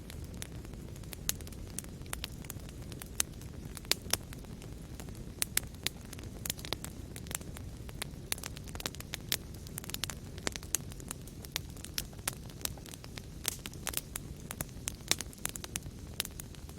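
Fire crackling in a fireplace: many irregular sharp pops and snaps over a steady low rumble of the flames.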